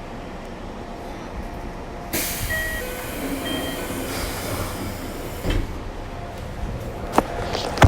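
Keikyu 1500 series electric train heard close to its motor car. Its Toyo Denki IGBT-VVVF inverter gives steady tones that step from one pitch to another over a hiss that starts suddenly about two seconds in. Sharp wheel clicks come near the end.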